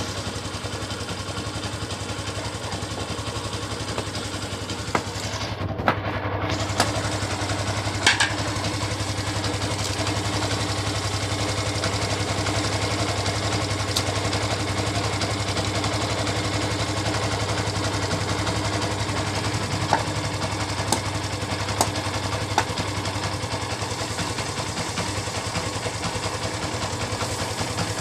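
Yamaha 150 cc single-cylinder motorcycle engine idling steadily, with a few sharp clicks now and then. It is the engine's normal running sound, with no timing-chain rattle, as the owner says.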